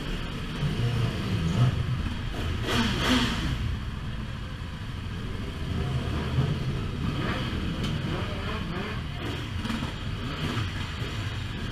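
Motorcycle engine running on the road, its pitch rising and falling with the throttle, with a brief rush of noise about three seconds in.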